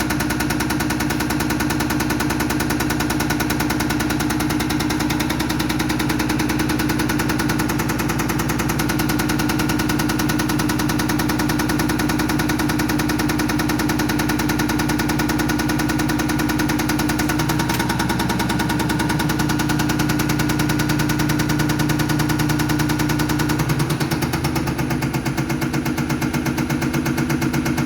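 Diesel pump test bench running a Bosch unit pump for a Mercedes Actros, a steady machine sound with a fast even pulsing. The tones shift about 18 seconds in and again about 24 seconds in as the bench moves through its test points.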